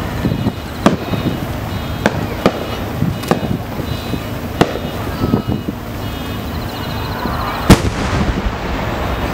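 Aerial firework shells bursting: a series of sharp bangs over the first five seconds, then a much louder bang about eight seconds in as a large chrysanthemum shell bursts.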